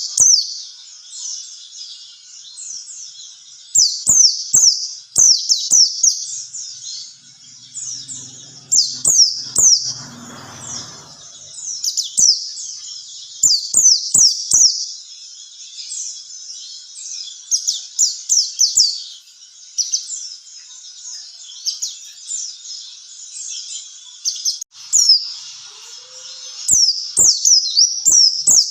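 White-eye (pleci) song: very high, rapid strings of quick downward-slurred notes, sung in chattering phrases of a few seconds with short gaps between them.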